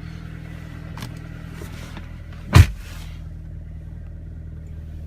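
2011 Ford Escape's 2.5-litre four-cylinder engine idling steadily just after a cold start. A single loud thump comes about two and a half seconds in.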